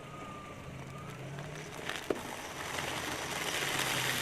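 Car engine running at low speed, with a rushing, crackling noise swelling in the second half as the car rolls over something, and a single sharp click about two seconds in.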